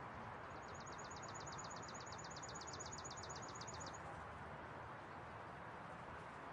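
A bird singing a high trill of rapid repeated notes, each sliding downward, about seven a second for a little over three seconds, starting about half a second in. Under it runs a steady hum of city background noise.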